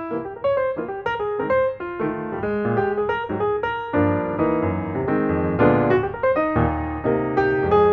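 Background piano music: a melody of quick notes over chords, growing fuller about halfway through.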